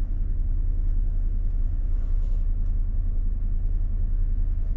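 Pickup truck running, heard from inside the cab as a steady low rumble.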